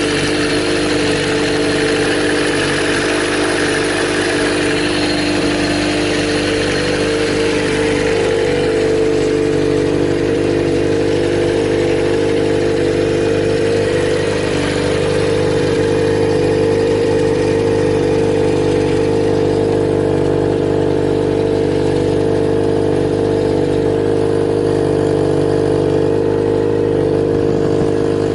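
Kawasaki Z400J's air-cooled inline-four engine idling steadily.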